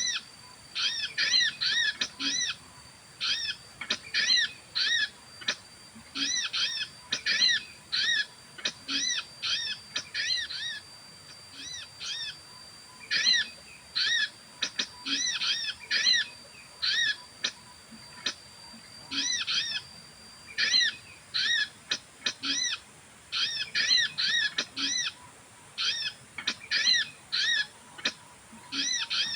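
Bird calls: quick clusters of short, high, arching notes repeated over and over, with brief gaps between clusters. A thin, steady high tone is held through the middle stretch.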